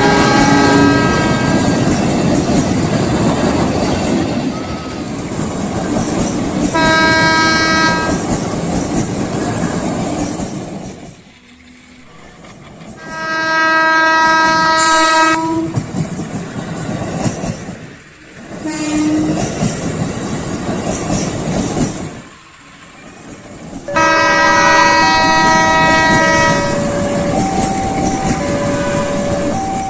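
Train running with a steady rumble and wheel clatter, sounding its horn three times: a short blast, a longer one, and a third near the end, when a two-note warning tone starts alternating.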